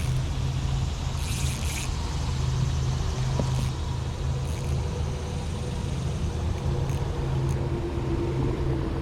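Steady low rumble of road traffic, swelling and easing, with a brief rustle about a second and a half in.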